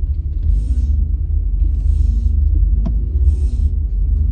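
Low rumble of a car moving slowly, heard from inside the cabin, with faint hissing that comes and goes about every second and a half and a single click near three seconds in.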